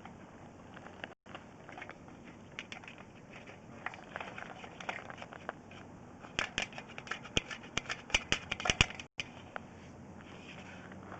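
Irregular clicking and scraping of a sewer inspection camera's push cable being fed into the line. About six seconds in it becomes a quick, louder run of clicks lasting a couple of seconds. The sound cuts out for an instant twice.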